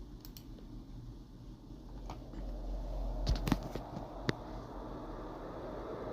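35-inch exhaust fan running, its rushing air noise growing louder over a steady low hum, with a few sharp clicks about halfway through.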